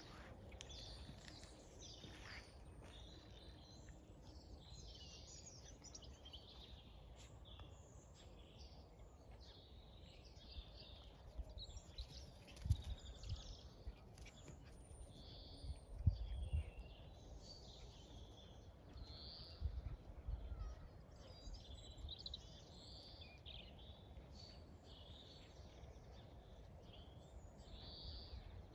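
Small birds chirping and singing in the background, many short calls throughout, with a few soft low thumps around the middle of the stretch.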